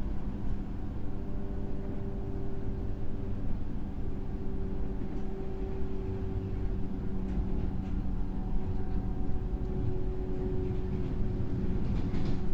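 Inside a JR West 103-series electric train motor car with MT55 traction motors: a steady low rumble with a constant hum in two tones, and a few sharp clicks near the end.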